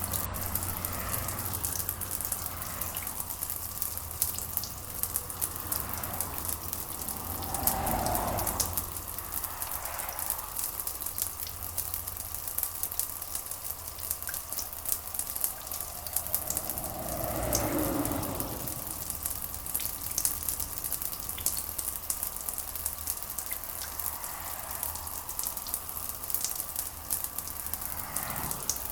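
Steady rain, a dense hiss full of fine drop ticks, with two slow swells of a lower rushing rumble, about eight seconds in and just past the middle.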